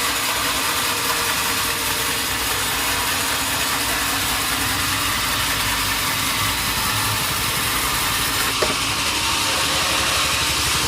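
Sawmill machinery running steadily: an even engine-like drone under a hiss, with one short click about eight and a half seconds in.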